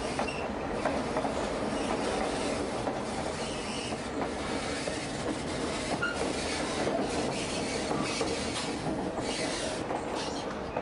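Steady running noise of a White Pass & Yukon Route narrow-gauge passenger train heard from aboard a car: wheels rolling and rattling over the rails, with a few brief faint squeaks.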